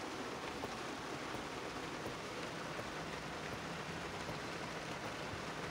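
Heavy rain falling steadily on a truck's roof and windshield, heard from inside the closed cab.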